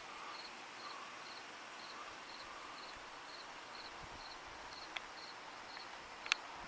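A cricket chirping steadily at about two chirps a second, with a sharp click near the end.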